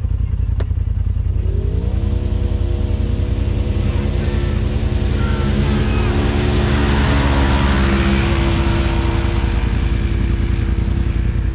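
Side-by-side UTV engine under way with a heavy low rumble. It revs up in pitch about a second and a half in, then holds a steady speed, with a rushing noise that swells through the middle.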